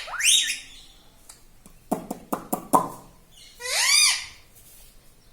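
Pet parrot calling: a short rising call at the start, a quick run of clicks about two seconds in, then a loud rise-and-fall call near four seconds.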